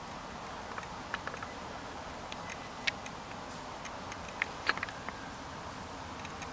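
Quiet outdoor night ambience: a steady faint hiss with a scattering of small, irregular clicks and ticks, a few sharper ones about three and nearly five seconds in.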